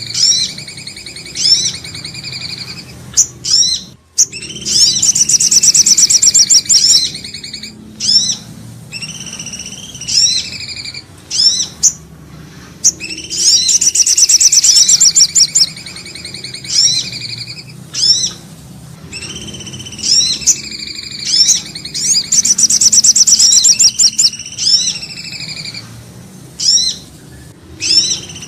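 Bird-lure recording of common iora (cipoh) and sogok ontong calls, playing in a loop: falling whistled phrases and short sharp notes, with a loud, rapid high trill about every nine seconds.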